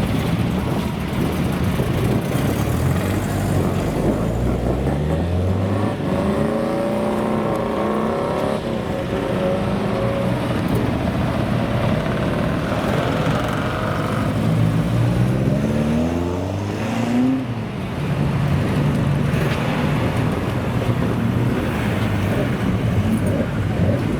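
Car engines accelerating hard, the pitch climbing steeply in two runs, the second cutting off abruptly.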